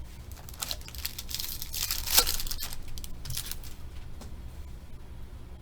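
Trading card pack wrapper being torn open and crinkled, a run of rustling bursts that is loudest about two seconds in.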